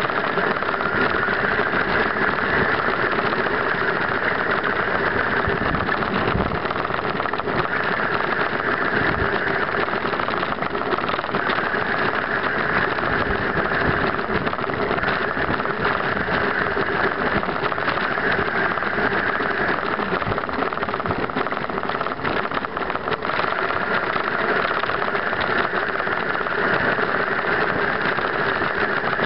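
Suzuki B-King's inline-four engine running steadily.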